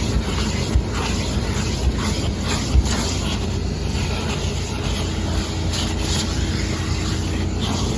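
1993 Mazda Miata being driven: a steady run of its four-cylinder engine mixed with tyre and wind noise, with a small knock or two from the road.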